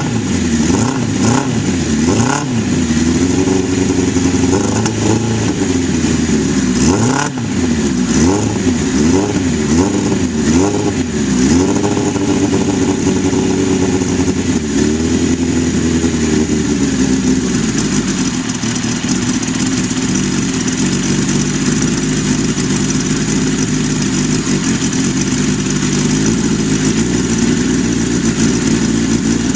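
1983 Suzuki GS1100E's air-cooled inline-four engine warming up from a cold start. For about the first twelve seconds it is blipped up and down about once a second, then it settles to a steady idle.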